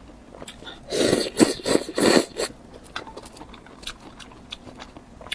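Close-miked eating: a few loud bites and chews about a second in, then faint, short mouth clicks.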